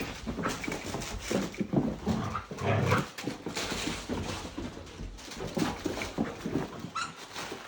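Two puppies tugging at a plush toy, making short whimpering and growling noises amid scuffling, with no steady rhythm.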